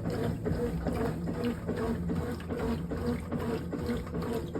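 Brastemp 18 kg top-load washing machine agitating a load of laundry in water: the motor hums in short repeated strokes, about two a second, over the sloshing of the water.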